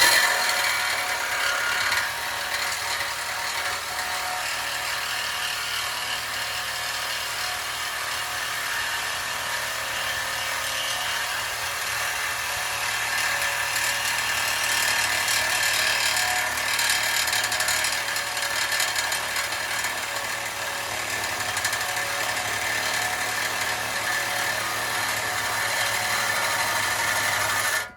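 A power cutting tool running continuously as it cuts through the metal exhaust pipe to remove the muffler, a steady, dense, rasping noise.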